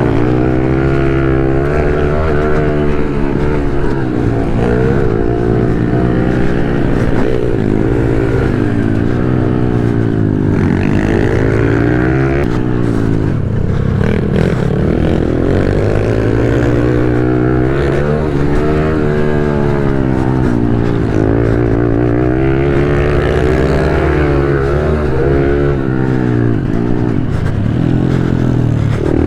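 A 110 cc pit bike engine revving hard, its pitch climbing and dropping again and again as the bike accelerates, shifts and backs off around the track.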